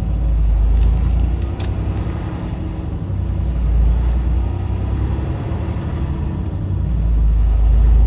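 Semi truck's diesel engine running as the rig drives slowly, a steady low rumble that swells and eases a few times.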